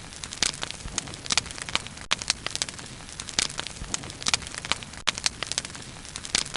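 Bonfire of burning wood crackling, with frequent irregular sharp pops and snaps over a low, steady hiss.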